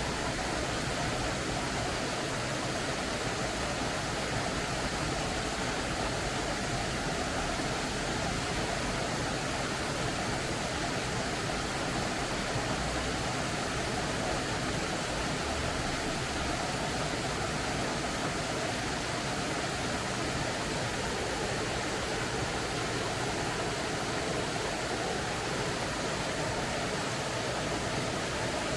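Mountain creek flowing, a steady rush of water that keeps an even level throughout.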